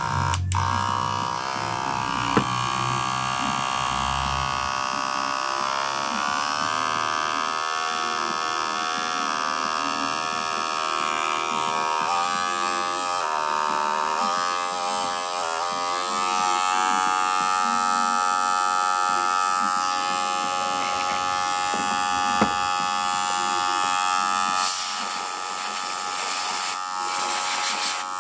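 Wahl Senior electric hair clipper running with a steady buzzing hum; its pitch wavers for a few seconds around the middle, then settles. The barber judges that it is not yet 'singing' with its proper sound and still needs adjusting.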